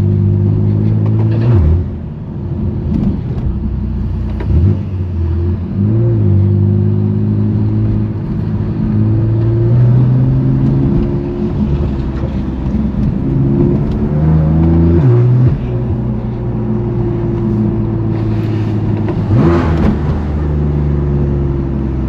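2018 BMW M3 Competition's twin-turbo S55 inline-six with a straight-pipe exhaust, heard while driving. The engine note holds steady pitches, then drops sharply about four times as the revs change.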